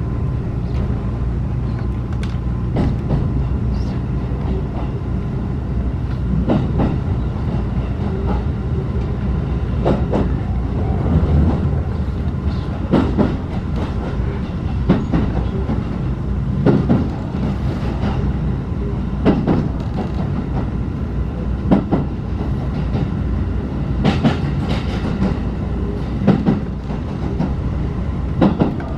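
Ride of a locomotive-hauled passenger coach heard from inside: a steady low rumble of the running gear, with the wheels clacking over rail joints in pairs every two or three seconds.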